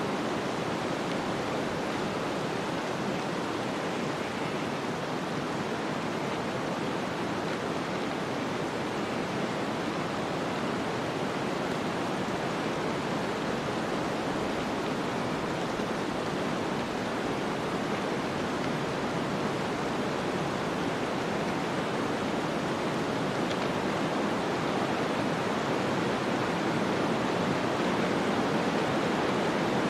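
Snowstorm ambience: a steady rushing of wind-driven snow, swelling a little louder over the last several seconds.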